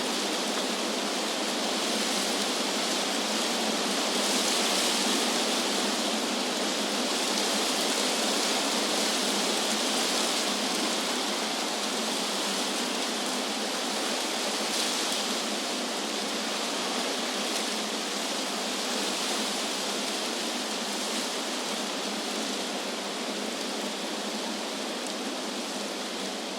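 Wind rushing through tree leaves, a steady rustling hiss that swells gently a few seconds in and again about halfway through.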